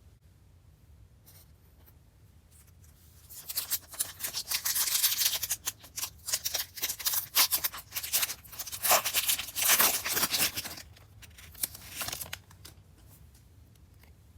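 Plastic packaging of a trading-card box or pack being torn open and crinkled: dense crackling rustle that starts about three seconds in and stops about twelve seconds in.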